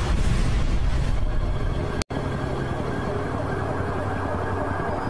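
Emergency vehicle sirens over a dense, steady rumbling noise, broken by an abrupt cut about two seconds in.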